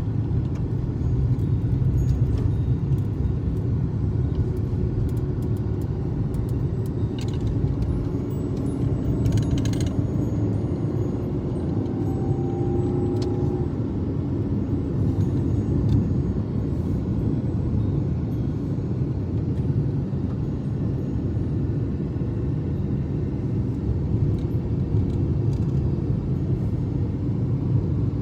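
Steady low rumble with a few faint clicks and a brief faint held tone about halfway through.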